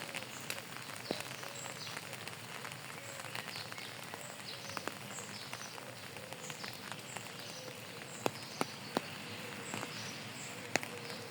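Steady rain, with individual drops tapping sharply on a hard surface and a few louder drips about two thirds of the way through. Faint high chirps repeat about twice a second in the background.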